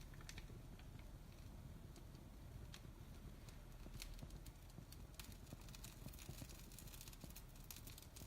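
Firelog burning in a fireplace, crackling faintly with irregular small pops that come thicker from about five seconds in.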